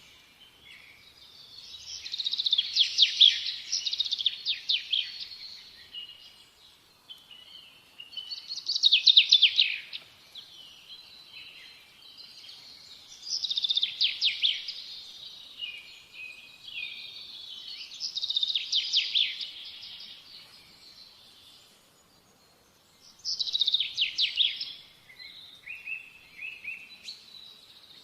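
Birds singing in repeated high-pitched phrases, each a quick run of notes lasting two to three seconds, coming back about every five seconds with quieter gaps between.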